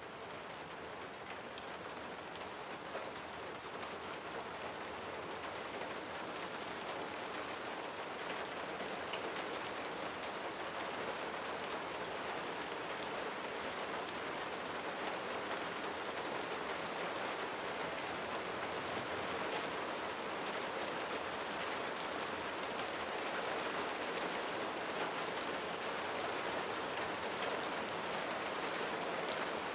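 Steady rain falling, a dense hiss flecked with many small drop ticks. It fades in at the very start and grows slightly louder over the first seconds.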